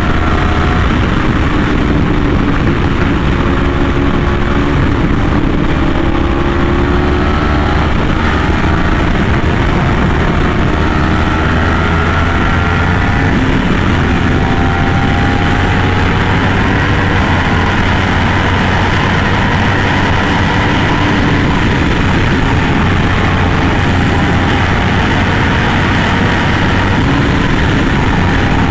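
Yamaha R1M's crossplane inline-four sport-bike engine running through an SC Project exhaust on the move, its pitch rising and falling slowly and gently as the throttle is eased on and off, over a steady rushing noise.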